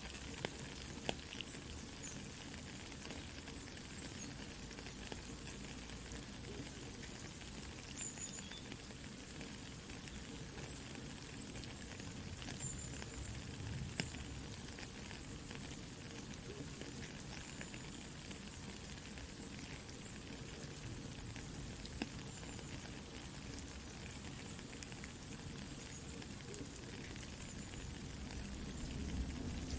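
Soft, steady rain together with a crackling campfire: an even hiss of rain with scattered small pops and snaps from the burning wood.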